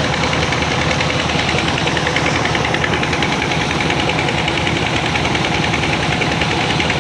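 Old tractor engine running steadily at a constant speed, with a rapid, even beat, as when driving the water pump.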